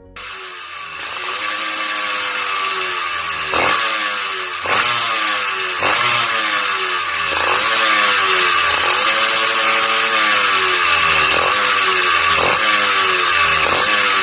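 Yamaha F1Z-R two-stroke motorcycle engine, running on a chainsaw ignition unit, revving repeatedly with its pitch rising and falling. It starts suddenly and grows louder over the first few seconds.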